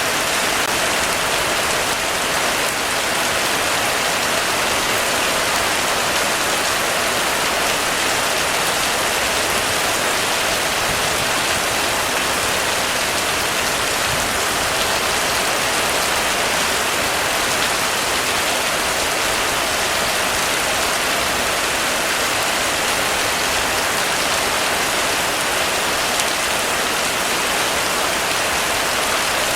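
Heavy rain falling steadily on a roof, an even hiss of drops with no let-up.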